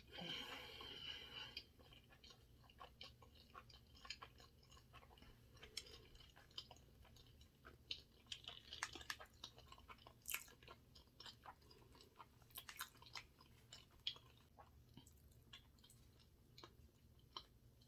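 Faint, close-miked chewing of sushi: irregular soft, wet mouth clicks and smacks, a little louder in the first second or so.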